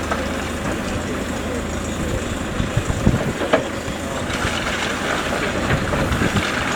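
Train at a station platform: a steady rumble with a few knocks about three seconds in.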